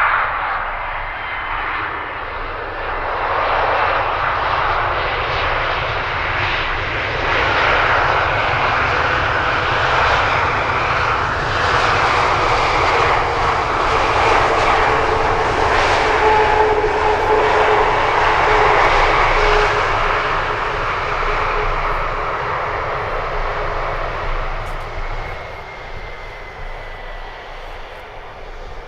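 Jet airliner's engines running as it passes, growing louder to a peak about halfway through and then fading, with a steady whine over the rush.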